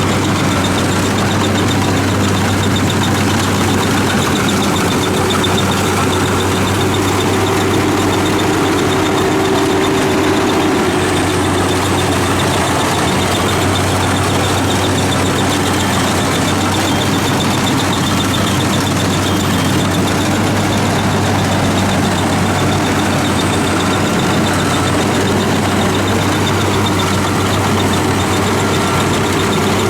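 WD 102 rice combine harvester running, a loud, steady engine and machinery drone with no let-up.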